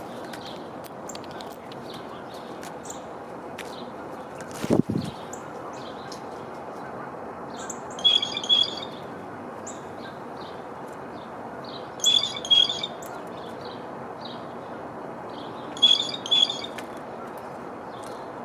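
Small birds chirping at a feeder, with a louder two-part call repeated three times about four seconds apart. There is one dull low thump about five seconds in.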